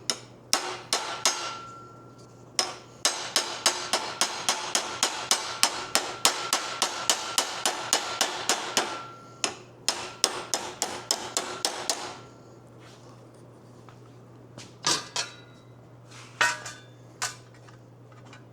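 Hammer blows on a sheet-metal patch panel, bending its flange over a rod as a makeshift anvil to work the bend around a corner. The blows come in quick runs of about three a second with a ringing metallic tone, pause, and end with a few scattered taps.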